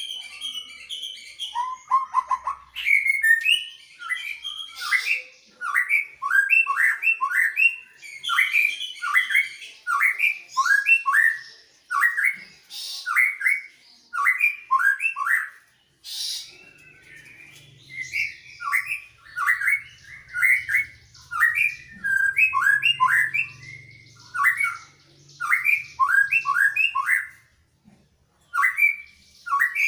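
Greater green leafbird and white-rumped shama singing in alternation: short, quick phrases of sharp chirping notes repeated one after another with brief pauses.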